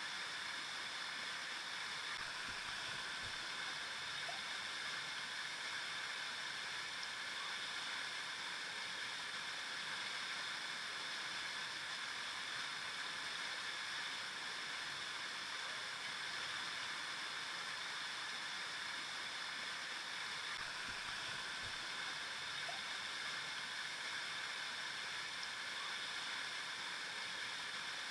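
Flowing river: a steady, even rush of water with no breaks.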